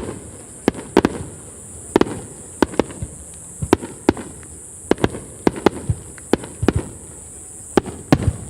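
Aerial fireworks bursting: an irregular run of sharp bangs, often two or three in quick succession, over a steady high-pitched hiss.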